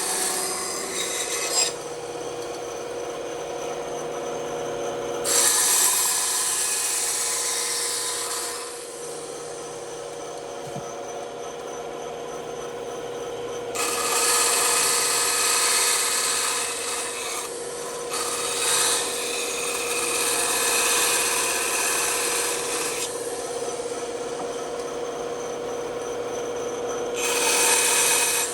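Bandsaw running with a steady hum while its blade cuts through wood. The cutting noise swells loud several times and eases off between passes.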